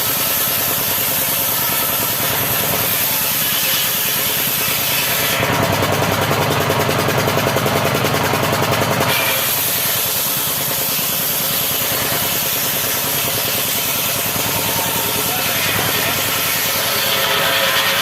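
Motorised saw running and cutting acacia wood, steady throughout, with a denser, slightly louder stretch from about five to nine seconds in.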